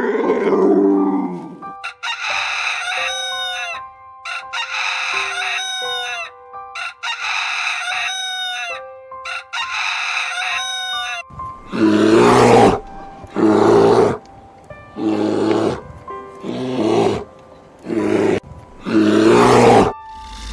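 Animal calls over soft background music: five long calls, each ending in a falling pitch, then six louder, shorter, harsher calls in quick succession.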